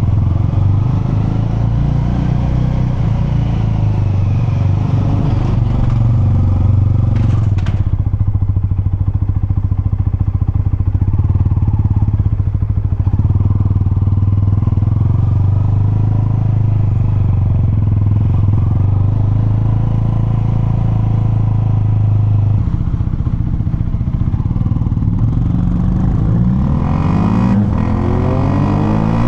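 Honda CL250 motorcycle engine running at a steady low speed, then revving up with a rising pitch near the end as it pulls away.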